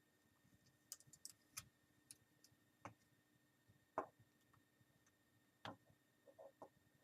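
Faint, scattered small clicks and light taps, about a dozen, the loudest about four seconds in: a small Phillips screwdriver and tiny screws being worked out of a laptop's screen frame.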